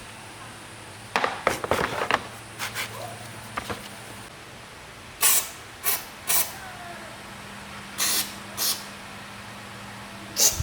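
A quick run of clicks and knocks, then a series of short, sharp hissing bursts, about five of them, each well under a second.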